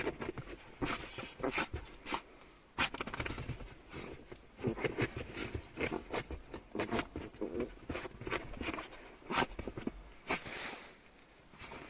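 A dog vocalizing angrily in short, irregular bursts of grumbling and growling, with a few sharper outbursts: it is indignant after being given an injection.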